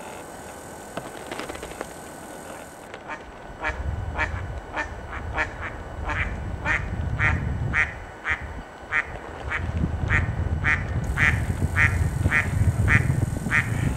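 A bird calling a long series of short, quack-like notes, about two a second, starting a few seconds in and running until near the end, over a low rumble.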